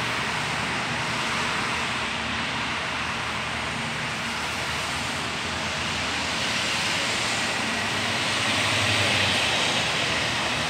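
Steady outdoor background noise with a low hum, like distant traffic, swelling slightly near the end.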